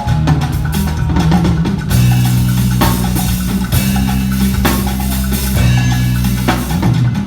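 Live drum kit played with a bass line, low notes held for a couple of seconds each, punctuated by cymbal crashes and drum hits every second or two.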